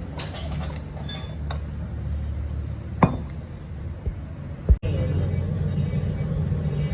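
Metal tools and parts clinking and tapping, with ringing high tones, then a louder ringing strike about three seconds in and a heavy knock just before five seconds. A steady low hum runs under the later part.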